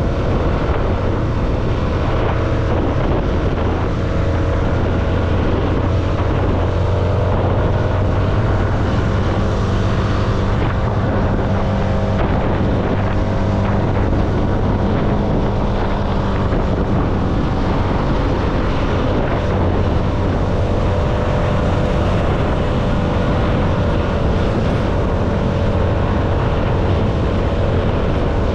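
CFMoto motorcycle engine running at a steady cruising speed, with wind rushing over the microphone.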